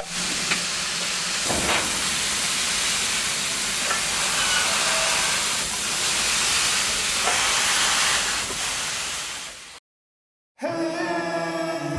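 Steady hiss of steam from 2 ft gauge Garratt steam locomotives, fading out about nine seconds in. After a second of silence, music starts near the end.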